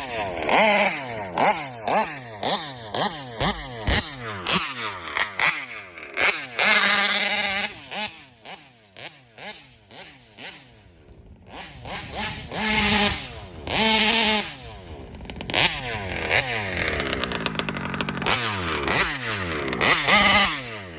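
A large-scale RC car's 71 Supreme two-stroke engine being driven hard. The revs rise and fall again and again on the throttle, with a few long full-throttle runs and a quieter stretch near the middle where it drops back toward idle.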